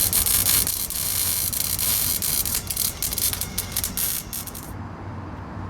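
A shop tool working on the car's exhaust gives a loud crackling hiss, full of rapid clicks, over a steady low hum. The hiss cuts off suddenly near the end.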